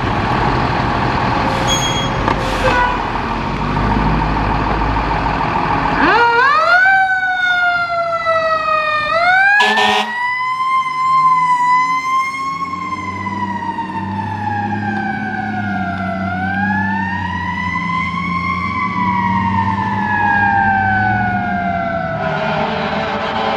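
Fire truck passing with its siren on. Its engine rumbles for the first few seconds, then the siren starts with two quick rising yelps and goes into a slow rise-and-fall wail, with a brief sharp burst about ten seconds in.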